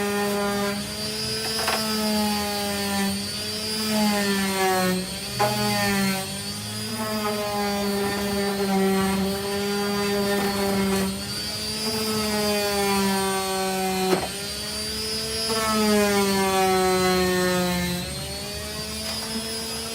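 Power sander with a 240-grit disc sanding body filler, its motor whining steadily. The pitch sags slowly as the sander is bogged down against the surface, then jumps back up a few times, with an occasional sharp click.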